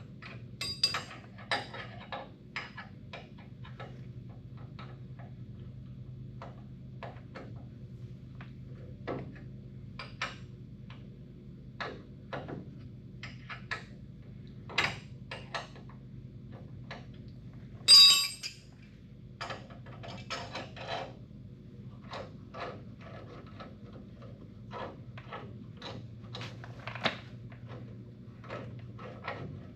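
Metal hand tools and car parts clinking and knocking at irregular intervals, with a louder metallic clatter about two-thirds of the way through, over a steady low hum.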